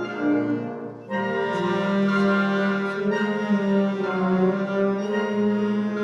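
Concert band of wind and brass instruments playing a sustained passage; the full band swells in about a second in.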